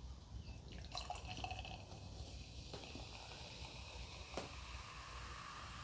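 Beer being poured from a can into a glass: faint liquid pouring and dribbling, with a few light ticks.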